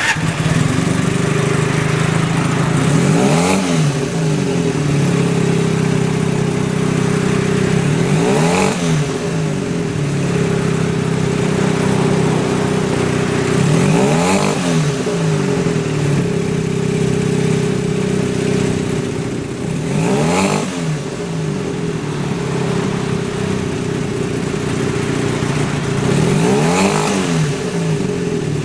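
Honda CB250 Super Hawk's air-cooled parallel-twin engine idling steadily, with five short throttle blips spaced about six seconds apart, each rising and falling back to idle.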